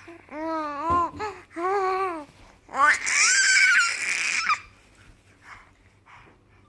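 Baby vocalising: several short cooing sounds that rise and fall in pitch, then a louder, longer squeal about three seconds in.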